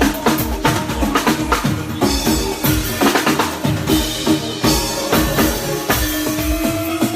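Live band playing during a sound check: a steady drum-kit beat of kick and snare with bass and held pitched notes, and one tone slides upward near the end.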